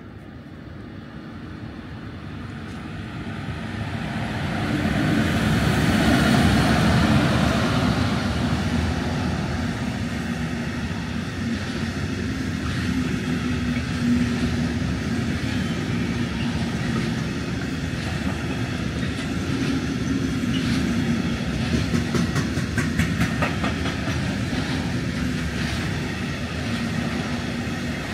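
A train passing on the line, growing louder over the first six seconds and then running on as a long steady rumble of wheels on rails with a low hum, with clicks of the wheels over rail joints coming more often later on.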